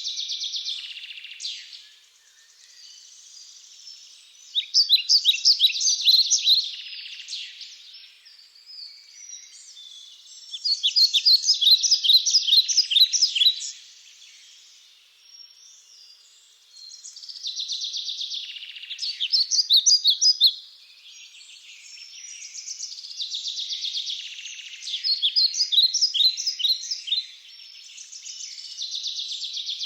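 Steady hiss of a flowing river with a bird singing over it, repeating a phrase of rapid sharp notes lasting two to three seconds about every six seconds.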